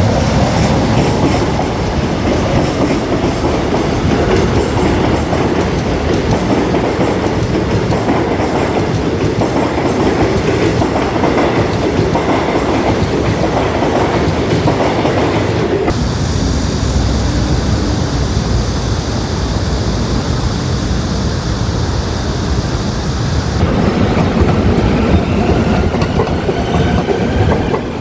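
A train running through a station, its wheels clattering over the rail joints in a loud, continuous rumble.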